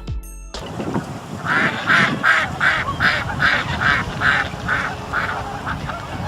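Duck quacking: a run of about ten quacks, two to three a second, growing weaker near the end.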